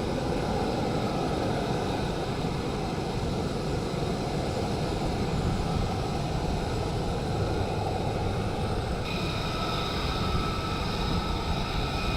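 F-35A Lightning II jet engine running, a steady, loud noise. A whine of several high tones joins about nine seconds in.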